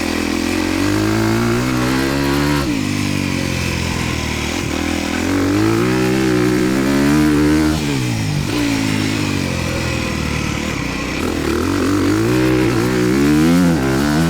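Honda dirt bike engine being ridden hard, its pitch climbing under throttle and then dropping sharply, several times over, as the rider accelerates and backs off.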